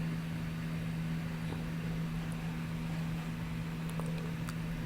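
A steady low hum with faint background hiss, and a few faint ticks.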